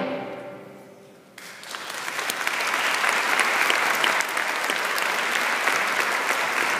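The last sung chord dies away, then an audience breaks into applause about a second and a half in, clapping steadily.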